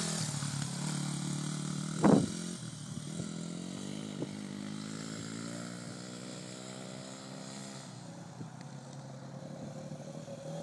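Small off-road engines of a dirt bike and a quad running, with a brief loud burst about two seconds in. Then one engine drones at a slowly rising pitch and fades as the machines ride away.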